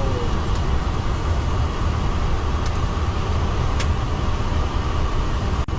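Steady cockpit noise of a jet airliner on the ground with its engines running: a deep rumble under an even hiss, with a faint steady tone. The sound cuts out for an instant near the end.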